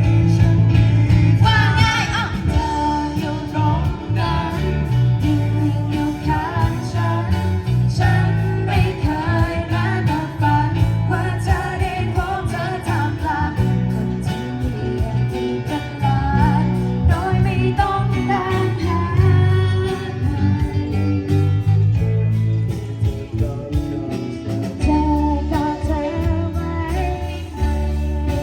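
A band playing a song, with singing over guitar and a strong, steady bass.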